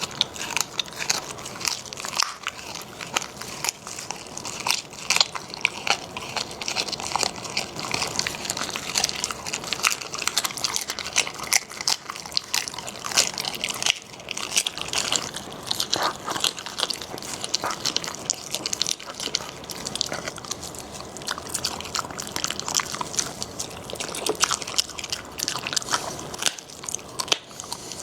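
A Shiba Inu dog crunching and chewing raw food: cartilage and bone such as ostrich trachea and chicken feet. It is a dense, irregular run of crisp crunches and bites.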